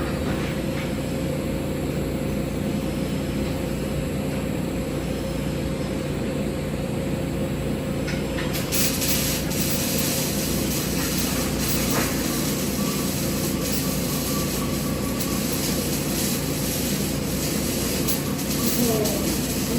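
Steady hum and hiss of a TIG welding setup on carbon steel pipe; about nine seconds in, a high-pitched hiss switches on and holds.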